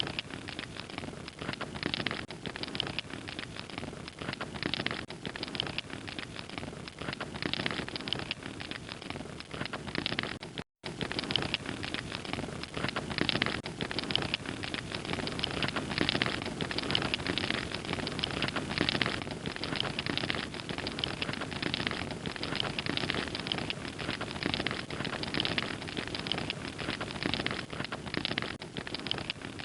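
Log fire crackling steadily, a dense run of small pops and snaps over a soft hiss, with a brief break to silence about eleven seconds in.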